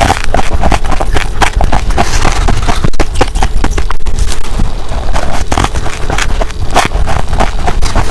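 Humidifier ice being bitten and crunched close to the microphone: a rapid, irregular run of sharp crackling crunches over a steady low rumble.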